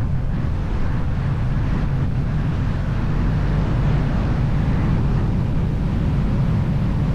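Motorcycle riding at a steady speed: engine rumble mixed with wind rushing over the microphone.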